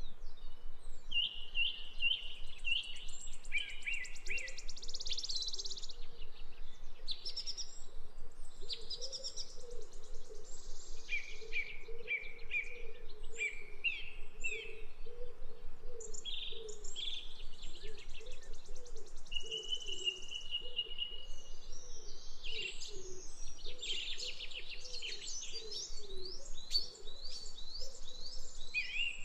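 Birds chirping and singing in quick repeated phrases and trills, several calls overlapping, with a low wavering sound underneath throughout.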